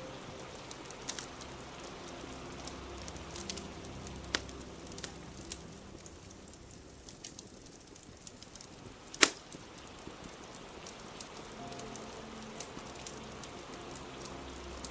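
Wood fire crackling with scattered sharp pops, one loud pop about nine seconds in and a smaller one a little past four seconds, over a steady hiss of rain.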